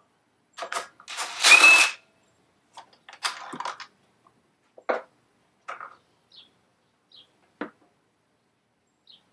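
Hand tools being handled: scattered metal clicks and clinks, with a louder scraping clatter about a second in that ends in a brief ring.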